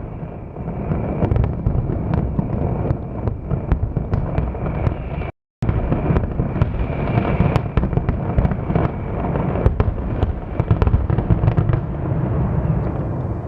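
Fireworks display: a dense, continuous barrage of booms and crackling bangs with a deep rumble beneath. The sound drops out completely for a moment about five seconds in.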